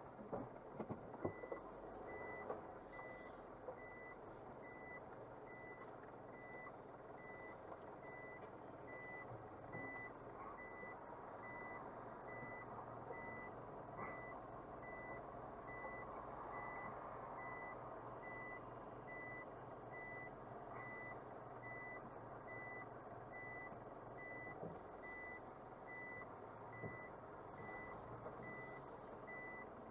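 An electronic warning beep repeating steadily at a single high pitch, starting about a second in, over the low running noise of a car on the road.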